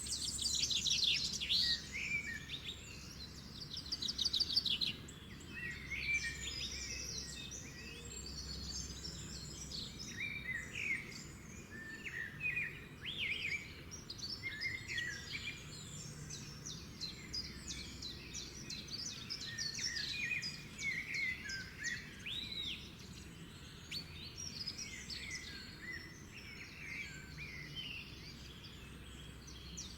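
Several birds chirping and singing together, many overlapping calls and trills over a faint steady background hiss, busiest in the first few seconds.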